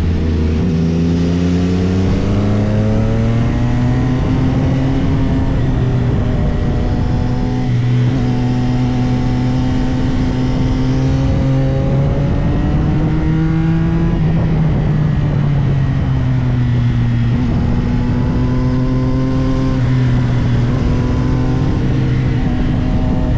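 CFMOTO 675SR-R's 675 cc inline-three engine heard on board under way, pitch rising and holding as it pulls. The pitch climbs about twelve seconds in, falls away near fourteen seconds, then builds again.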